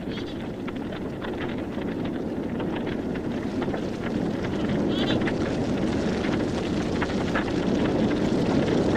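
Grass fire burning: a steady rushing roar thick with small crackles, growing gradually louder.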